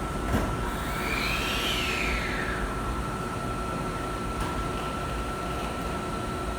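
Hankyu train in the station, with a whine that sweeps up and then falls away over about a second and a half, over a steady high tone and low platform rumble.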